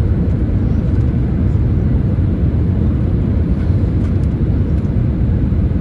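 Jet engines of an easyJet Airbus A319, a steady loud low rumble with no distinct events.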